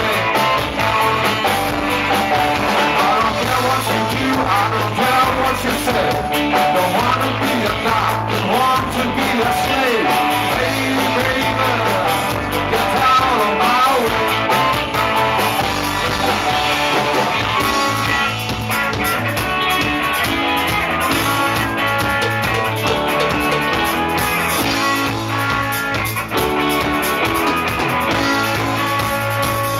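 A rock song plays: a band with electric guitar over a steady, repeating bass line and drums.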